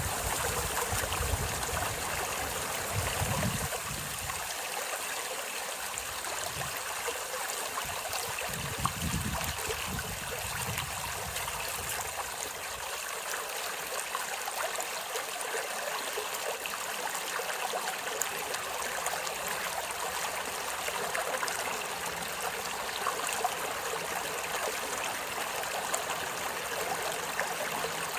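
Steady rushing of running water, like a small stream, with a few low rumbles in the first ten seconds.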